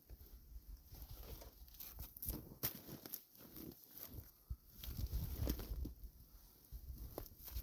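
Footsteps crunching through deep snow at an irregular pace, with a low rumble of wind buffeting the microphone, heaviest about five seconds in.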